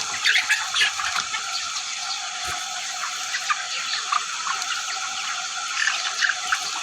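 A large flock of chickens in a poultry house, many short chirps and calls overlapping into a steady din.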